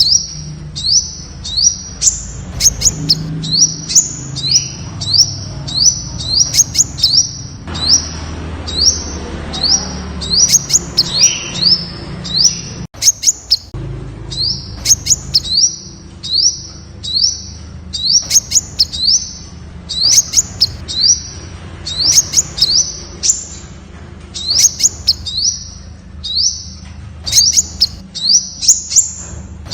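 Temminck's sunbird (Aethopyga temminckii) calling: a long, steady series of short, high, sharp slurred notes, about two a second, breaking off briefly about thirteen seconds in.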